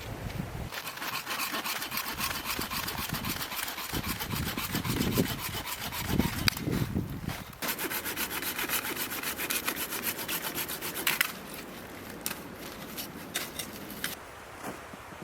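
Hand saw cutting through a piece of wood with fast, even back-and-forth strokes. It pauses briefly about halfway and stops about eleven seconds in, leaving a few faint knocks.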